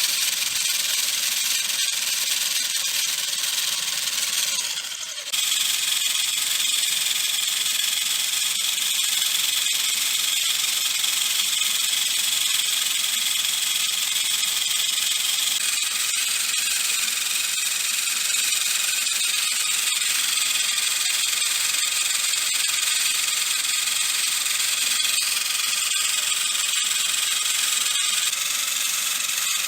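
Small electric motor running steadily with a high whine, dipping briefly about five seconds in.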